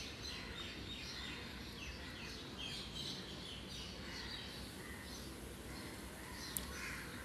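Faint bird chirps, many short downward-sliding notes repeating, over a low steady hiss. One sharp click comes about six and a half seconds in.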